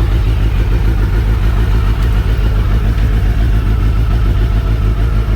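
Suzuki Hayabusa's inline-four motorcycle engine running loud and steady at a constant speed, with no revving.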